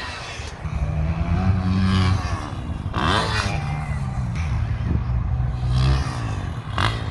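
Dirt bike engine revving, its pitch rising and falling, with a strong rev about three seconds in.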